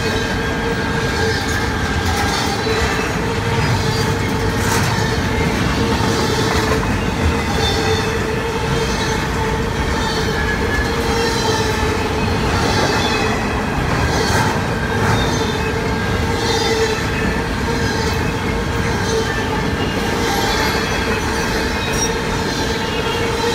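Double-stack intermodal freight train cars rolling past at speed: a steady rumble of steel wheels on rail with a steady tone running through it and occasional clacks.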